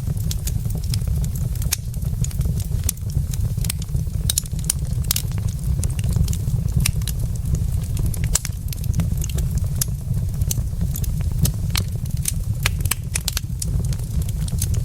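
Wood fire in a fireplace crackling: many sharp, irregular pops and snaps from the burning logs over a steady low rumble.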